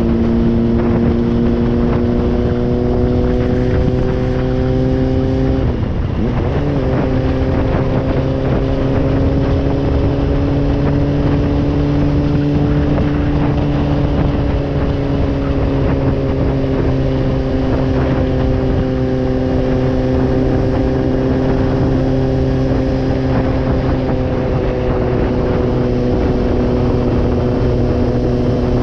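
Honda CBR600RR's inline-four engine running at cruising speed. The engine note breaks briefly about six seconds in, climbs a little, then eases gradually lower.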